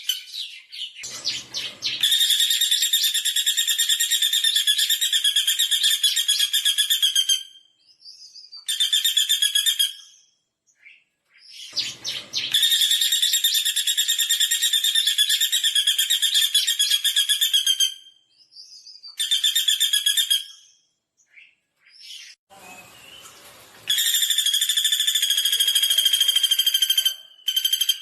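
Pelatuk bawang woodpecker giving long, fast rattling trills, three of about four to five seconds each, with shorter trills between them. A short low, noisy burst comes just before each long trill.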